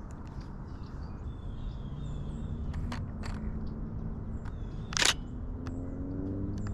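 DSLR shutter clicking several times, the loudest a short burst of shots about five seconds in. A low steady drone lies underneath and rises slightly in pitch near the end, with faint bird chirps.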